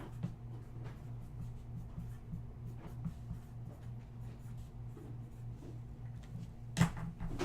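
Faint rubbing and light taps of things being handled on a table, over a steady low electrical hum, with one sharper click near the end.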